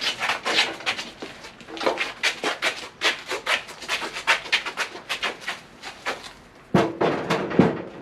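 Metal clanking, clicking and scraping as an engine is handled and shifted on a jack beneath a car, in quick irregular strokes, with two heavier clunks near the end.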